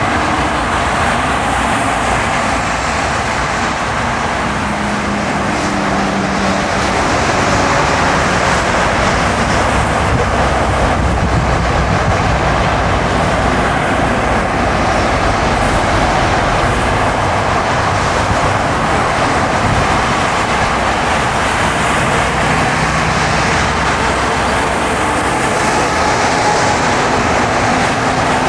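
Car driving on a snowy road: steady tyre and road noise with a low engine hum underneath.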